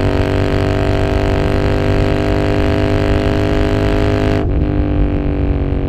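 Royal Enfield Continental GT motorcycle engine running at a steady speed with an even droning note. About four seconds in, the sound dulls and the pitch dips briefly.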